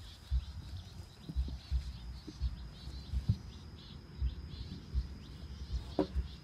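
Small birds chirping over and over, over a steady high insect drone, with irregular low thumps throughout and one sharper knock about six seconds in.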